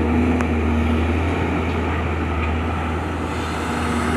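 Excavator's diesel engine running steadily with a low drone, with a few faint clicks over it.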